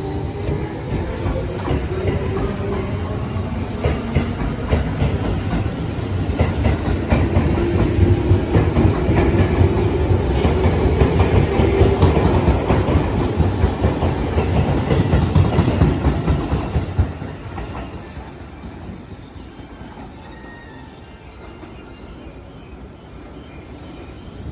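Electric commuter train running along the track, with wheel clatter and a motor tone. The sound stays loud for about seventeen seconds, then drops off sharply to a quieter rumble as the train moves away.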